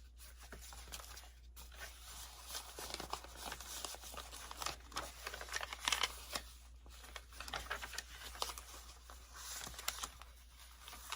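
Paper rustling and crinkling in irregular bursts with small ticks, as the pages of a handmade hardbound paper journal are handled and turned.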